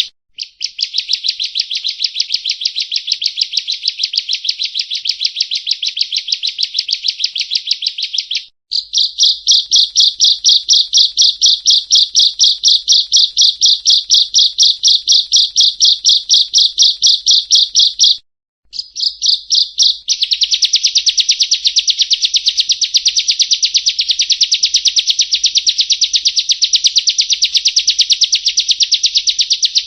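Bar-winged prinia (ciblek kristal) song: long, fast runs of evenly repeated high, sharp notes, rattling on for many seconds at a time. The song breaks off briefly about a third and two thirds of the way through.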